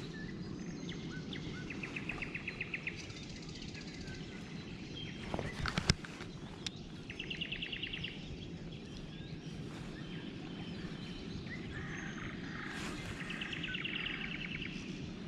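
A songbird's short, fast trill, repeated three times about five seconds apart, over a steady low hum of outdoor background noise. A single sharp click sounds about six seconds in.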